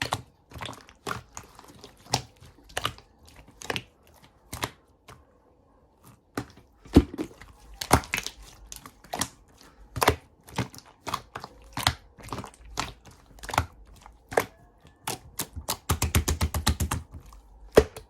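Chocolate slime being squished and poked by hand, giving sharp clicks and pops about one or two a second, with a quick run of clicks near the end.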